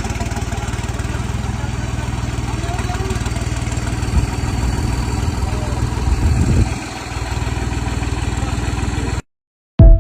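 Diesel tractor engine running steadily under load, surging louder twice and dipping once, then cutting off abruptly. A short burst of music starts just before the end.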